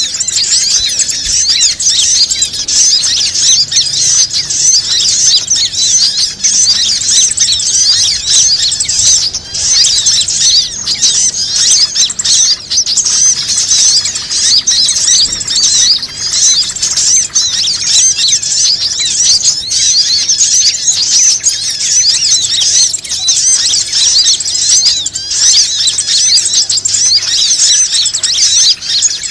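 A bird-lure call recording: dense, unbroken high-pitched chirping and twittering of many small birds, played to draw in birds of all kinds.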